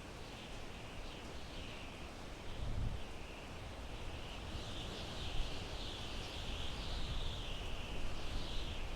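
Wind blowing through pine trees, a steady hiss with a low gusty rumble that swells now and then. Throughout, a continuous high-pitched shimmering band wavers in level over it.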